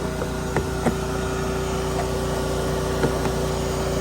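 A steady mechanical hum with a constant tone, with a few light knocks about half a second in, near one second and about three seconds in.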